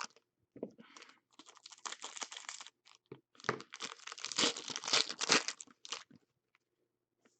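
Plastic wrapping crinkling and tearing as trading-card packs are handled, in two stretches of about two and a half seconds each.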